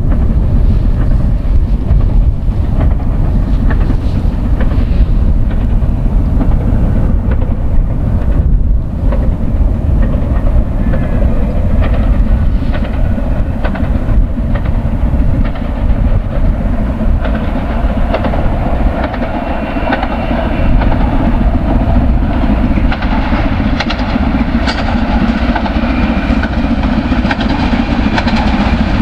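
LMS Black Five 4-6-0 steam locomotive running light engine past, its wheels clattering over the rail joints, with heavy wind rumble on the microphone. The rail sound grows fuller in the second half.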